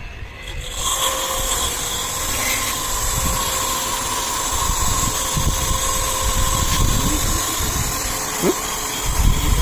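Jet-service pressure washer pump starting about a second in and running steadily, with the hiss of its water spray and a steady motor whine.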